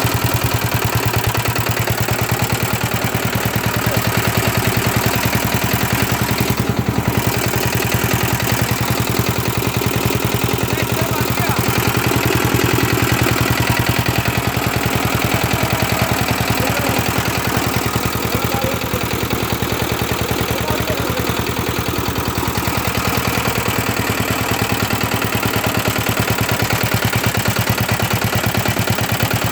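Auto-rickshaw engine running steadily at a constant speed, driving a spray pump, with a fast, even beat of firing strokes.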